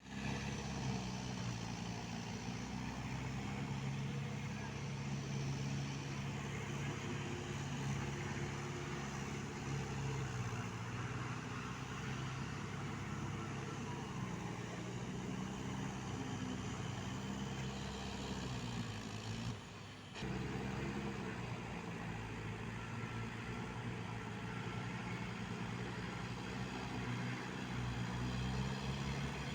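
Mahindra Yuvo 575 tractor's diesel engine running steadily while it drives a rotavator, with a brief drop about twenty seconds in.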